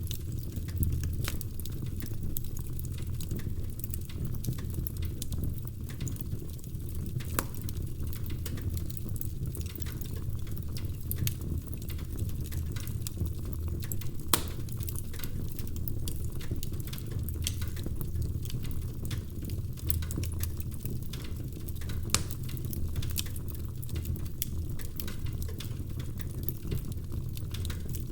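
Burning firewood crackling in a fireplace: frequent irregular sharp pops and snaps over a steady low rumble.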